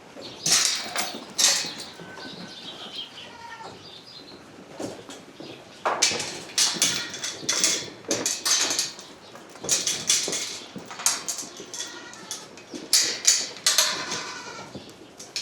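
Goats bleating now and then among repeated sharp clattering and rustling as livestock crowd in to feed.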